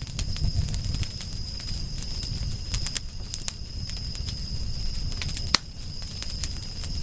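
Campfire crackling, with irregular sharp pops and snaps over a low rumble of flames, and one louder pop about five and a half seconds in. A steady high-pitched tone runs underneath.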